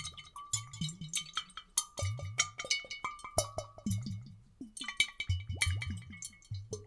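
Water sloshing and glugging in glass bottles, several layers at once: short bubbly blips that fall in pitch, mixed with sharp glassy clicks and clinks, some ringing briefly, in a busy irregular patter.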